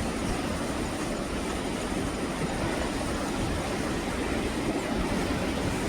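Sea surf washing against a rocky shore below cliffs: a continuous rushing noise with a deep rumble underneath, with no single wave standing out.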